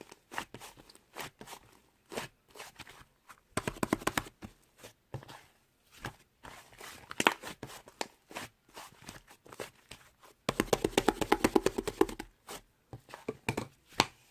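Slime being squished and pressed by hand, giving scattered sticky clicks and pops, with two stretches of rapid crackling, one about four seconds in and a longer one after about ten seconds.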